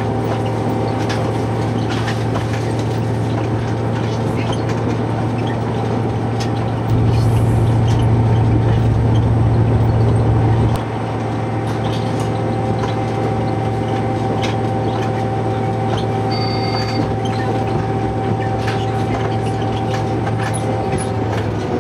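Diesel train running on the line: a steady engine drone with a few steady whining tones and scattered light clicks from the track. The engine gets louder for about four seconds partway through, then drops back.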